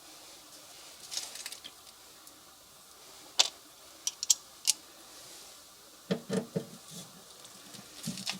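Scattered sharp clicks and a few duller knocks from hand work: tools or small parts being handled and set down. One click comes about three and a half seconds in, a quick run of three follows, and a cluster of low knocks comes near the end.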